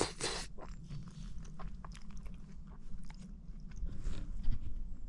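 Close-up chewing and eating sounds of a person eating wild boar liver stew: irregular wet clicks and crunches, loudest right at the start. A steady low hum runs underneath.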